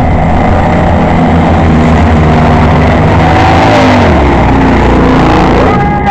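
Several Baja race car engines running hard during a race, their pitches rising and falling as they accelerate and lift off, overlapping with one another.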